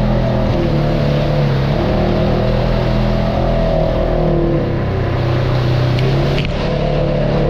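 Off-road vehicle's engine running under changing throttle, its pitch stepping up and down several times.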